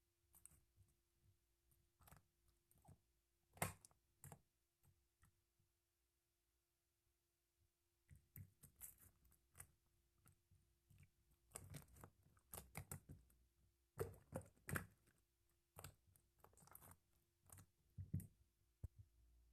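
Faint, irregular wet clicks and crackles of slime being pressed and squished by hand: sparse at first, a pause of about two seconds, then denser from about 8 seconds in.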